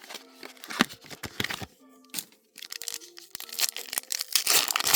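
Foil booster-pack wrapper being torn open and crinkled by hand, an irregular run of crackles that thickens near the end.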